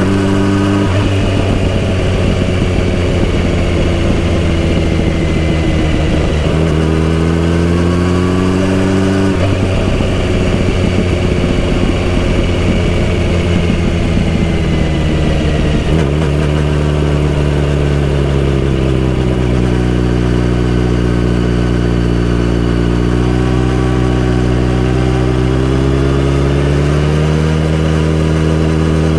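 Kawasaki Z900RS inline-four engine and exhaust being ridden, its pitch climbing with the throttle, dropping sharply about a third of the way in, then settling low and rising again near the end.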